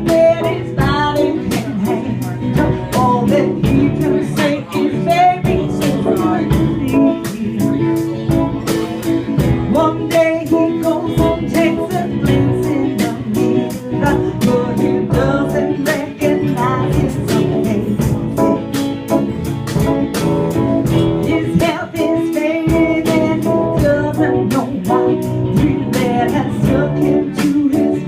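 Guitar strummed in a steady rhythm, playing the instrumental introduction of a song.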